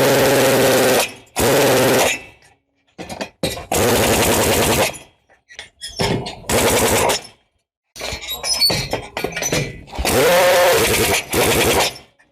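Loud bursts of a power tool, each about a second long, starting and stopping abruptly with short pauses between them.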